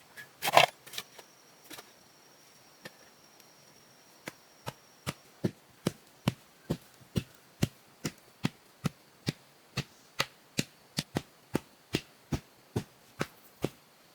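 A sharp knock, then a steady run of evenly spaced strikes, about two to three a second, from about four seconds in. The first few strikes grow louder, then they hold an even level; this is typical of chopping or striking with a hand tool.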